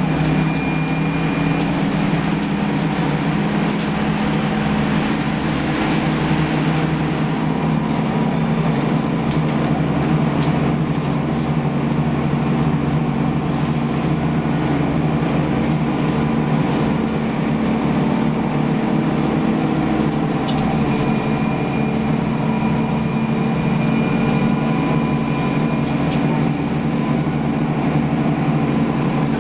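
Scania L94UB city bus's 8.97-litre six-cylinder turbocharged CNG engine running under way, its low note holding a steady pitch.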